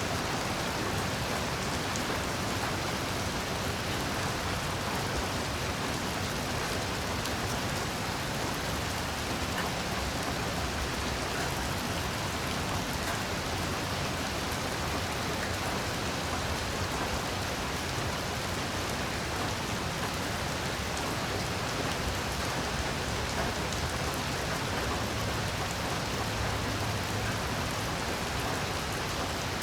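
Heavy rain falling steadily: an even, unbroken hiss with a dense patter of drops.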